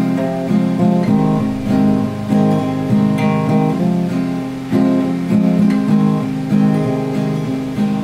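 Acoustic guitar strummed in a steady rhythm, chords changing every half second or so: an instrumental outro of the song.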